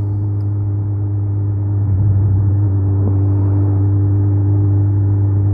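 2008 Suzuki Hayabusa's 1300 cc inline-four engine running steadily under way, a little louder about two seconds in.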